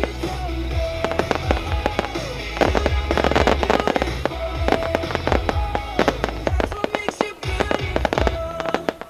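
A fireworks display: rapid bangs and crackles, densest about three seconds in, over pop music with a bass line.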